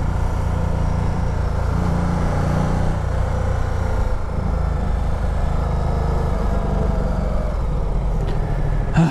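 Ducati Multistrada 1200's Testastretta V-twin engine running steadily while the bike cruises along a street, mixed with wind and road noise.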